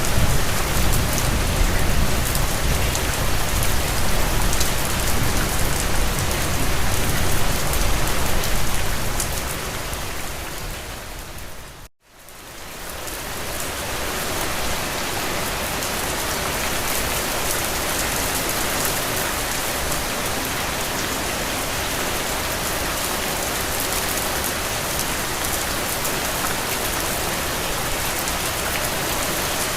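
Steady rain falling. It dips briefly to silence about twelve seconds in and fades back up, with less deep rumble after the dip.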